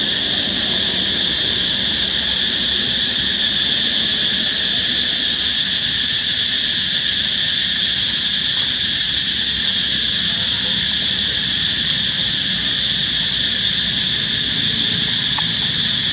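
Loud, steady, high-pitched insect chorus that goes on without a break.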